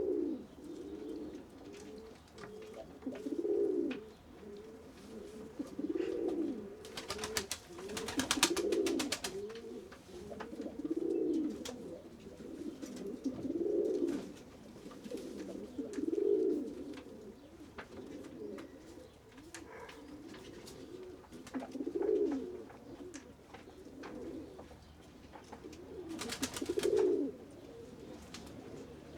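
Pigeons cooing, low coos repeated about every two to three seconds. Twice there is a rapid run of sharp clicks lasting a second or two.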